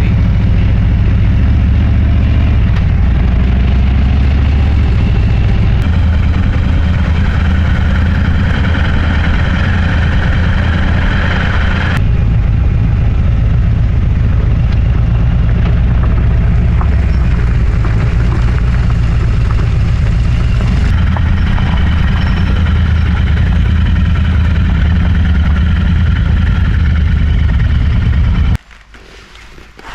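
Motorcycle engine running steadily under way, with a rush of wind and road noise. The sound shifts abruptly a few times and drops away sharply near the end.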